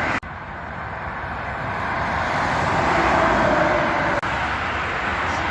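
A road vehicle passing by: rushing traffic noise that swells to a peak about three seconds in and then eases off. The sound drops out abruptly for an instant near the start and again about four seconds in.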